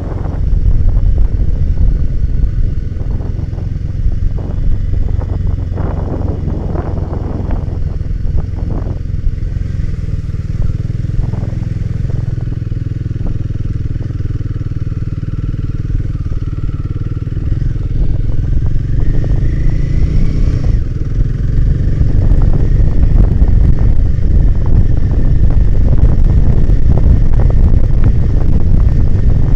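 Royal Enfield Himalayan 450's single-cylinder engine running as the bike is ridden, with scattered clatter early on. The engine pitch climbs about two-thirds of the way through. Then wind noise on the microphone grows louder as the bike picks up speed.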